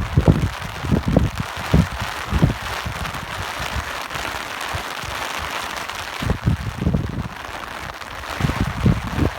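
Steady rain hiss with irregular low gusts of wind buffeting. The gusts ease off in the middle and pick up again near the end.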